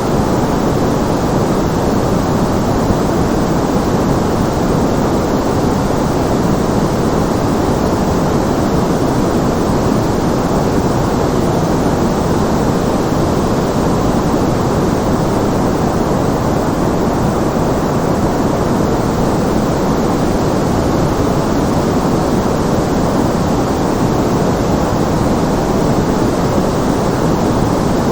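Steady synthetic background noise, even and unchanging, weighted toward the low and middle range like pink or brown noise rather than a bright hiss.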